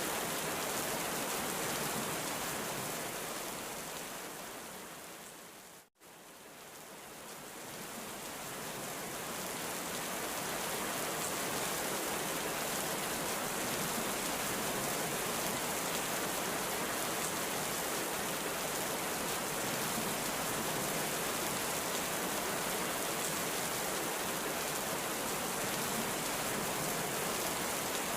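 Heavy rain falling steadily in a dense, even hiss. About six seconds in it fades down to a moment of silence, then fades back up over the next few seconds, a splice in the loop.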